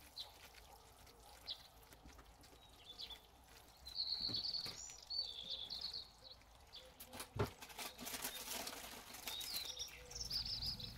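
Faint bird chirps in two short runs, about four seconds in and again near the end, with a single sharp knock in between.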